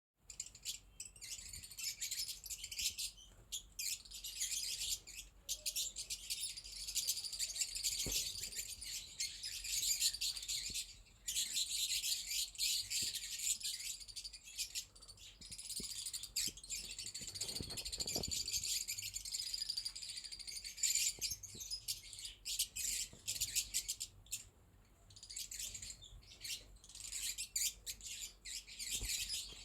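A colony of lovebirds chirping and chattering together: many high calls overlap almost without a break, with a few short lulls.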